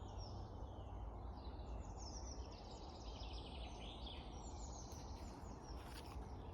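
Springtime woodland birdsong: several small birds chirping and trilling at once, over a steady low rumble.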